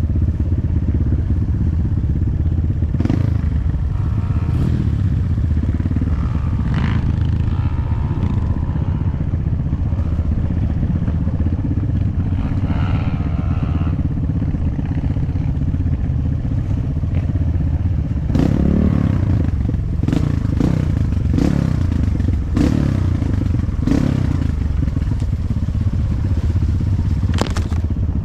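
Off-road dirt bike engine running steadily while riding. Short clattering knocks from the bike over rough ground come more often in the second half.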